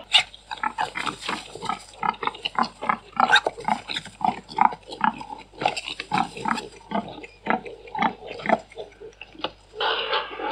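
Domestic pigs grunting in a quick run of short grunts, several a second.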